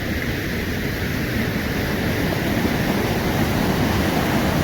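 Steady rush of river water pouring through rapids, a constant noise that grows slightly louder.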